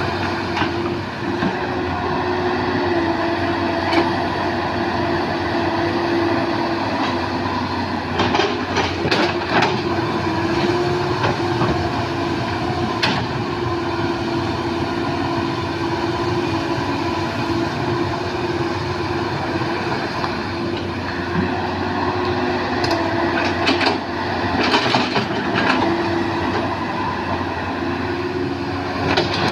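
Hydraulic excavator's diesel engine running steadily, its hum rising and dipping in pitch as the machine works, with scattered sharp knocks and clanks.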